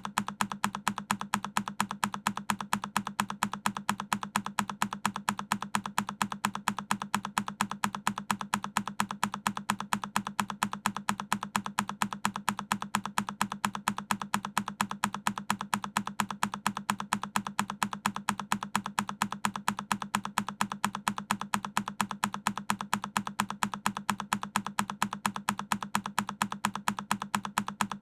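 A single key on a Keychron K10 mechanical keyboard, the same recorded click repeating at an even pace of about three a second.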